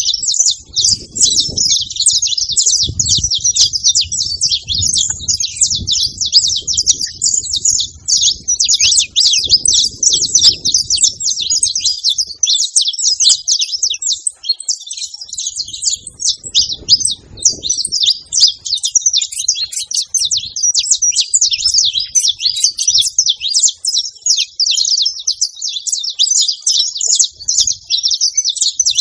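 Saffron finch singing: a continuous fast, high-pitched twittering of chips and trills without a break. A faint low rumble comes and goes underneath during roughly the first twelve seconds.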